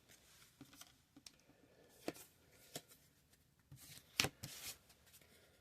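Trading cards being handled and sorted by hand: faint rustling with a few sharp flicks and taps of card stock, the loudest a little after four seconds in.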